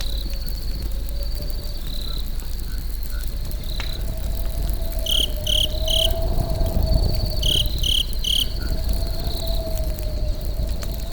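Crickets chirping in steady pulsing trills, with two sets of three louder, higher chirps about five and seven and a half seconds in. Underneath is a campfire's steady low rumble with an occasional faint crackle.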